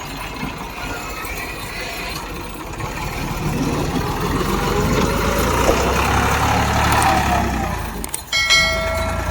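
Massey Ferguson 260 tractor engine running with a steady low rumble that grows louder midway. A brief multi-pitched tone follows near the end.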